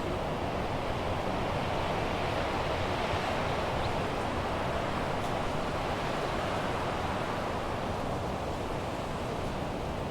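Wind blowing steadily: an even rushing noise with no clear gusts or breaks.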